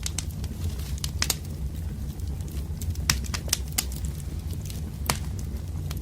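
Wood fire crackling: irregular sharp pops and snaps over a steady low rumble, with a few louder pops about a second, three seconds and five seconds in.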